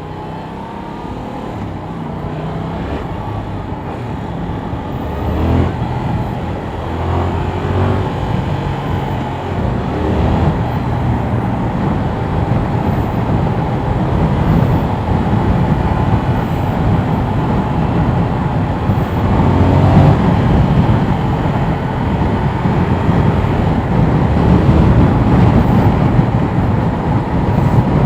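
Yamaha R7 motorcycle's parallel-twin engine running under way, its pitch stepping up and down several times, over a rush of riding wind that grows steadily louder as speed builds.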